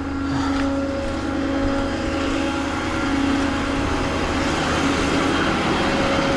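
Truck engine running steadily, a low drone with road or tyre noise under it.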